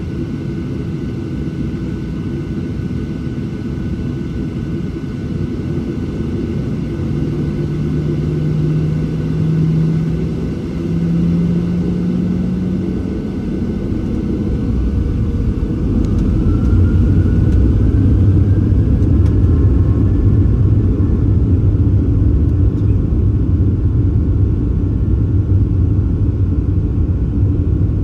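Boeing 737-700's CFM56-7 jet engines heard from inside the cabin, spooling up: a tone rising in pitch and a faint rising whine, while a low rumble grows louder about halfway through and then holds steady.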